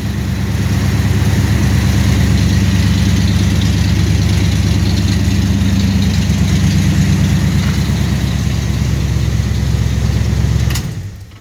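1974 Chevrolet Suburban's engine idling steadily through its newly fitted headers and mufflers, then shut off, dying away about eleven seconds in.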